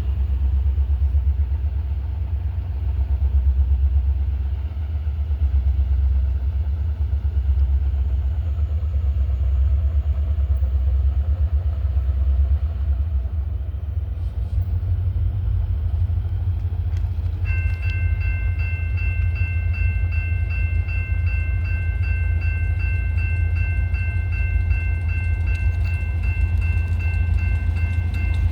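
Freight train rolling by with a steady deep rumble. A steady high-pitched ringing of several tones starts a little past halfway and carries on.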